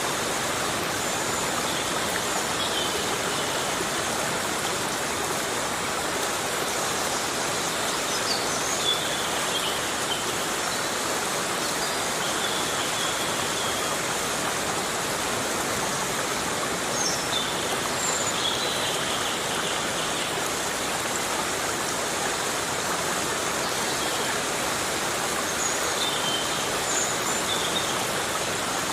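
Heavy rain falling steadily on a forest, an even, dense hiss with no breaks. Faint short high chirps sound now and then over it.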